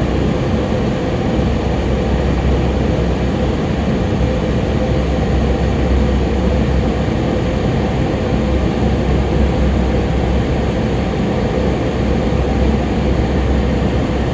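Thunderstorm making a steady, loud rumbling roar with no distinct thunderclaps.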